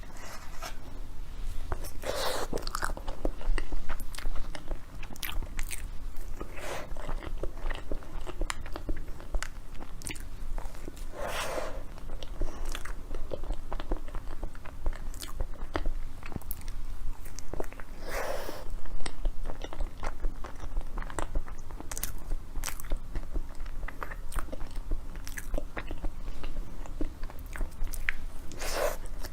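Close-miked biting and chewing of a chocolate dessert: many short sharp clicks, with a few longer, louder mouth sounds about 2, 11, 18 and 29 seconds in.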